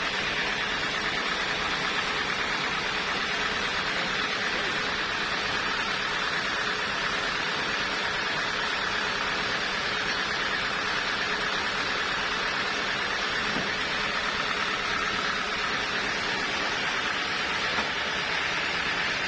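Woodworking machinery running steadily: an even rushing noise with a faint steady hum under it.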